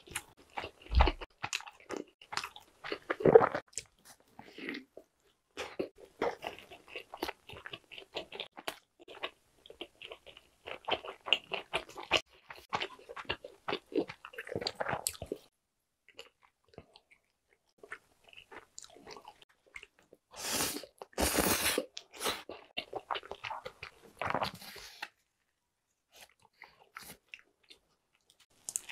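Close-miked eating: biting, crunching and chewing crispy pan-dough pizza crust and barbecue chicken, with a louder, noisier stretch of crunching or rustling about twenty seconds in.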